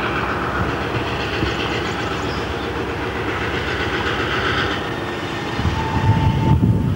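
CN freight train of covered hopper cars rolling past, the wheels rumbling and clattering on the rails. A brief steady high tone sounds about six seconds in.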